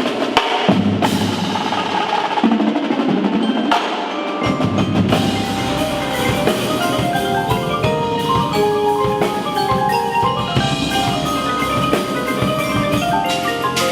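Indoor drumline performing: battery drums striking throughout, joined about four seconds in by the front ensemble's mallet keyboards playing fast runs of short notes.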